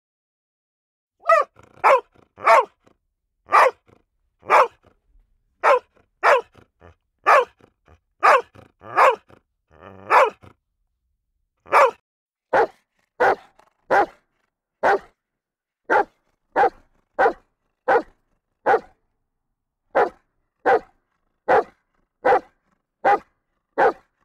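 A dog barking again and again in single short barks, starting about a second in. About halfway through there is a short pause, then a steadier, evenly spaced run of barks, roughly one every three quarters of a second.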